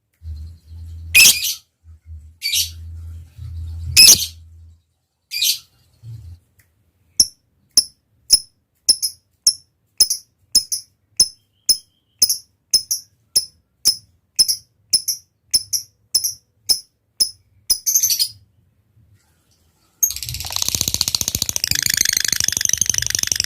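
Lovebird calling: a few sharp shrieks, then a steady series of short, high chirps about two a second (the 'ticking' call). After a brief pause, about twenty seconds in, it breaks into a long, rapid chattering trill, the prized 'ngekek' song.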